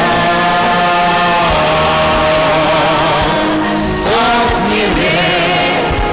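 A song playing: a singing voice holds long notes over a full instrumental backing.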